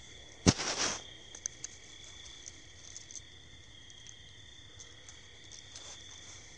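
Steady chorus of night insects such as crickets, shrilling at several high pitches. About half a second in comes a sharp knock with a brief rustle, the loudest sound, followed by a few faint ticks.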